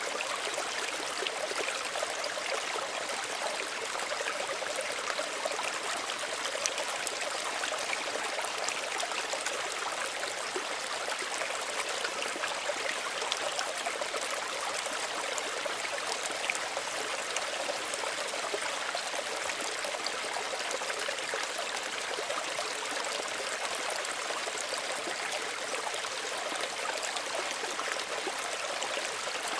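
Small stream running steadily over stones, a continuous burble and trickle with fine splashy detail.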